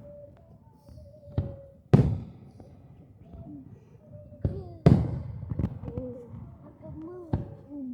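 Aerial fireworks bursting: a series of sharp booms that ring on briefly, the two loudest about two and five seconds in, with smaller bangs between.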